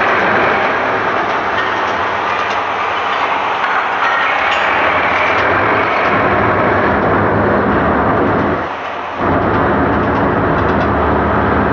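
A train running: a loud, steady noise, with a low, even engine hum joining from about halfway through and a brief dip in level near the end.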